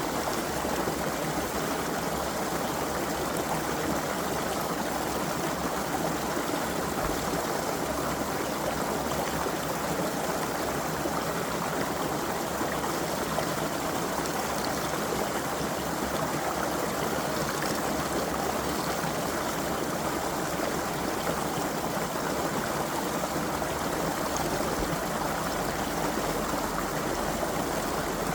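Creek water running steadily over rocks, an even rushing and trickling without pause.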